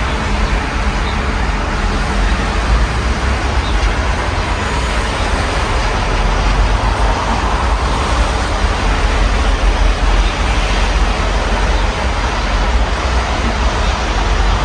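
Steady rain heard through an open window, mixed with the even noise of city road traffic.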